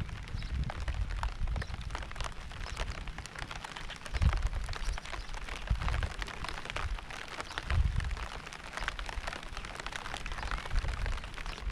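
Steady rain with many separate drop hits, and low rumbles swelling up every couple of seconds.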